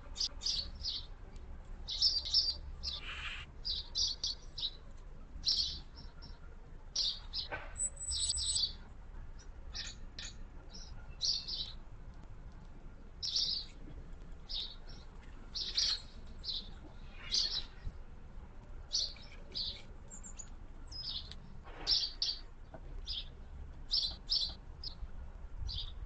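Small garden birds chirping: many short, high chirps in quick irregular runs, over a faint low background rumble.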